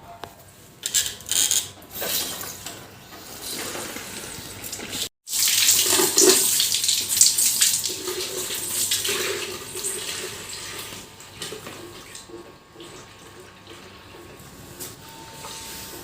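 Water from a hose pipe running and splashing onto a toy car. A few knocks come in the first seconds; after a brief dropout about five seconds in, the water is loudest, then it slowly tapers off.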